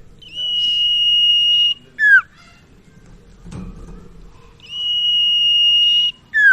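Common iora (sirtu/cipaw) singing: a long, steady, high whistle held about a second and a half, then a short note that slurs downward, the phrase given twice. A soft knock falls between the two phrases.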